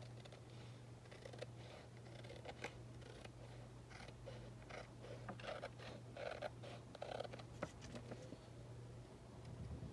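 Scissors snipping paper in a run of short, irregular cuts, faint over a steady low hum.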